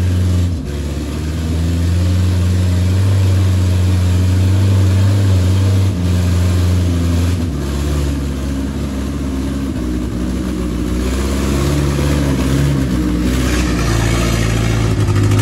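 Engine of a Toyota Dyna truck loaded with stone, labouring as it climbs, its pitch dropping and rising in steps several times.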